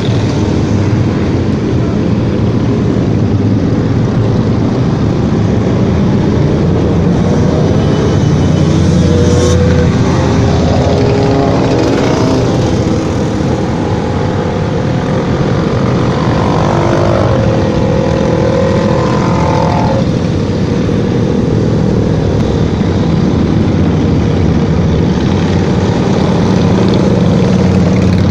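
Motorcycle engines running during a group ride, a steady loud rumble with engine notes rising and falling through the middle as bikes rev or pass.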